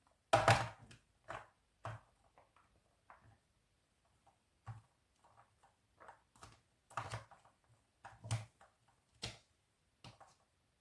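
Short knocks and clatters of kitchen utensils against dishes, about ten of them scattered irregularly, the loudest cluster just after the start.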